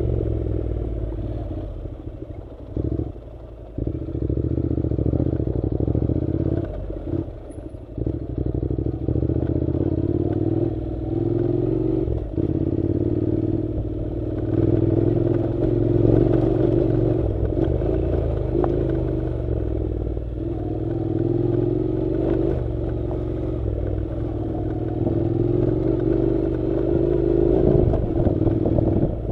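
Honda NC700 motorcycle's parallel-twin engine running at a steady pace on a dirt road, with clatter from the rough track. The throttle eases off briefly about three seconds in and again around eight seconds.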